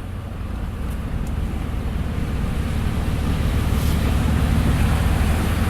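Pickup truck's engine humming steadily while its tyres push through standing floodwater, a rushing wash of water that slowly grows louder.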